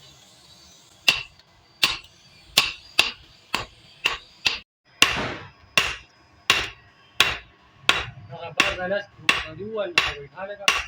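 Blacksmith's hand hammer striking metal on an anvil: a run of sharp, ringing blows, about two a second at first and coming faster in the second half.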